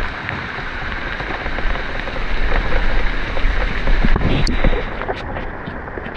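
Heavy rain falling steadily, with wind buffeting the microphone in a low rumble.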